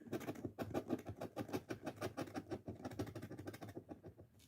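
Scratch-off lottery ticket being scratched: rapid short scraping strokes across the coating, about nine a second, thinning out near the end.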